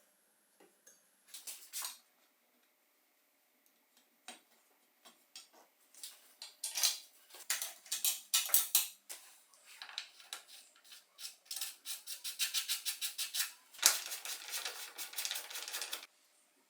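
Metal bicycle parts being handled and worked by hand: scattered clicks and clinks, a quick run of even clicks about twelve seconds in, then about two seconds of scraping.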